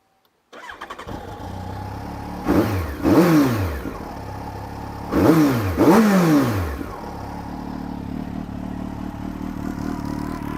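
Kawasaki Ninja ZX-12R's inline-four engine with a Yoshimura exhaust idling, then revved twice, each rev climbing and falling back to idle, about two and a half seconds apart.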